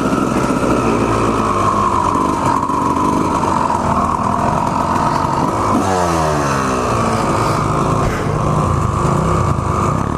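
Two-stroke Honda CR250R dirt bike engine running under throttle while being ridden, the revs dropping sharply about six seconds in and then climbing again.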